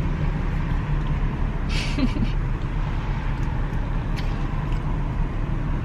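Steady low rumble of a car's engine and road noise heard from inside the cabin, with a brief hiss about two seconds in.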